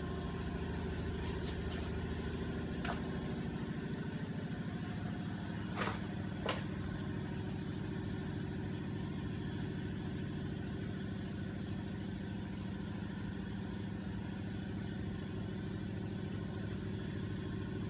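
Automotive smoke leak tester's air pump running with a steady hum, pushing smoke into the vacuum lines to find a leak, with a few light clicks.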